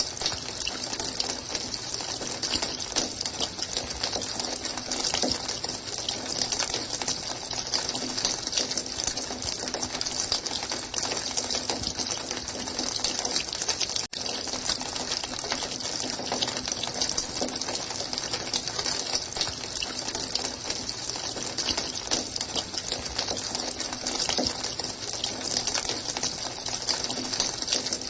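Running water splashing steadily with an even hiss, with a brief dropout about halfway through.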